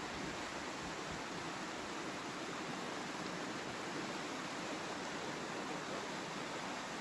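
Waterfall pouring steadily over rock into the pool at its base, a constant even rushing of water.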